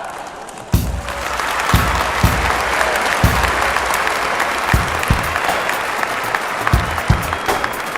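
A crowd applauding, the clapping swelling to full strength about a second in. Deep heavy thuds land on top of it at uneven intervals, about eight times.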